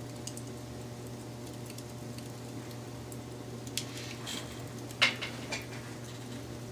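Wood fire crackling, with scattered small ticks, a cluster of sharper crackles about four seconds in and one loud pop about a second later.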